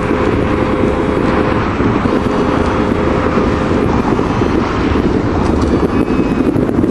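Wind buffeting the microphone: a steady, loud rumble with no distinct bangs.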